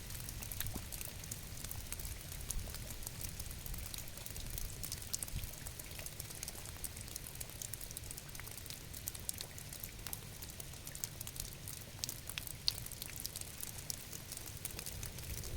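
Steady rain, with many individual drops ticking sharply over a low rumble.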